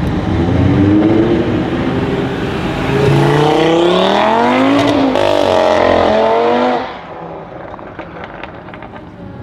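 Audi TT RS's turbocharged five-cylinder engine accelerating hard, its pitch rising steadily, with a drop at a gear change about five seconds in and another rise. At about seven seconds it falls away to quieter engine noise with a few sharp cracks.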